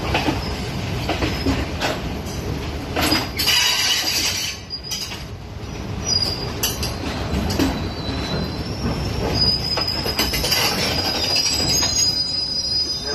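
Passenger train running over the rails, heard from an open doorway: a steady rumble with irregular wheel clacks, and thin, high wheel squeal joining in during the last few seconds.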